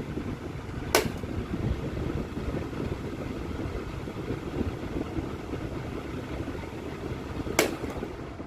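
AmazonBasics 400 mm table fan running, its air stream rushing and buffeting the microphone in a steady low flutter. Two sharp clicks sound, about a second in and near the end.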